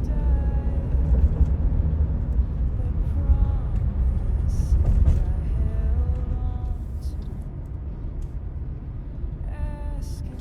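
Car road noise heard from inside the moving car: a steady low rumble that grows quieter after about six seconds.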